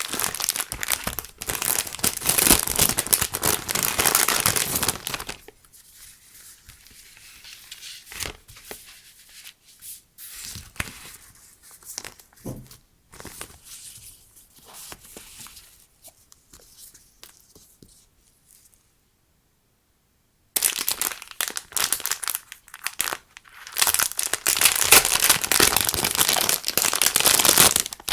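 Crinkly packaging being handled and torn open by hand, loud dense crackling in two long stretches with quieter rustles and small handling clicks between. A little past halfway there are about two seconds of dead silence.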